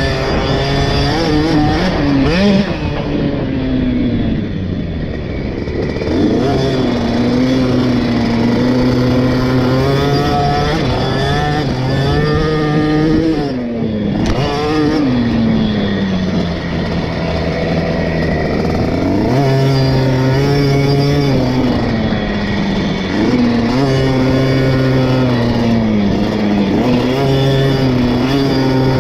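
The 50cc two-stroke single-cylinder engine of a KTM 50 SX youth motocross bike being ridden, its pitch climbing and falling again and again as the throttle is opened and shut, with a sharp drop about fourteen seconds in.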